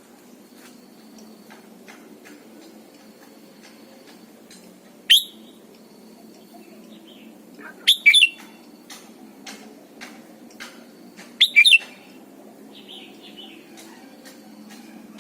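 Red-whiskered bulbul singing: three short loud whistled phrases about three seconds apart, with softer chirps and clicks between.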